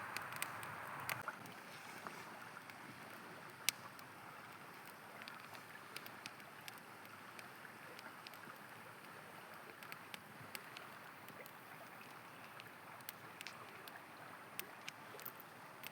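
A river flowing steadily, with the scattered crackles and pops of a wood campfire over it and one sharper pop about four seconds in. The rush of water drops a little about a second in.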